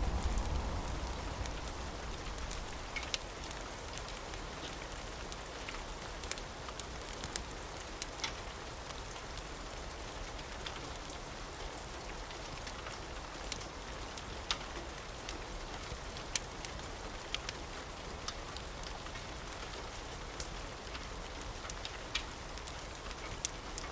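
Steady rain falling, with scattered sharp pops and ticks throughout. A low thunder rumble dies away in the first couple of seconds.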